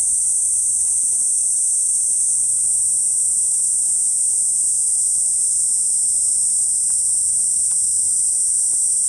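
Kuroiwa niinii cicada (Platypleura kuroiwae) singing: a continuous, even, high-pitched shrill buzz that holds steady without a break.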